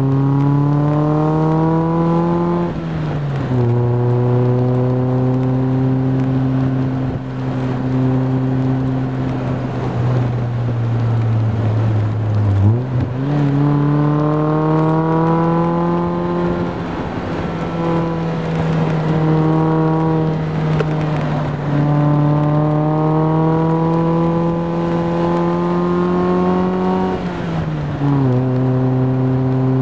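1999 Mazda Miata's four-cylinder engine heard through an Enthuzacar NB XR lightweight aftermarket exhaust while driving. The exhaust note rises slowly in pitch under acceleration and drops sharply at gear changes: near the start, about halfway through, and near the end.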